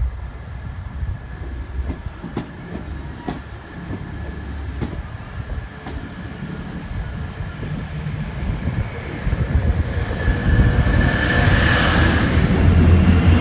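Class 180 diesel multiple unit approaching and passing close by. A low rumble builds from about two-thirds of the way in, then the rush of wheels on rail peaks as the front goes past, followed by the low, steady drone of its diesel engines as the carriages pass.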